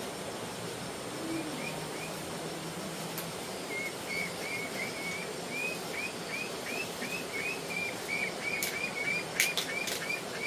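A bird chirping: a long run of short, repeated chirps, about three a second, with a few sharp clicks near the end.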